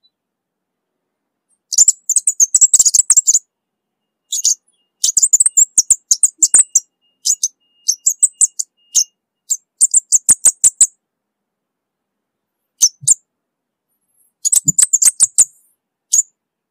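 Orange-bellied flowerpecker (cabai bunga api) calling: runs of very high, sharp ticking chips, several a second, in bursts of one to two seconds with silent pauses between them.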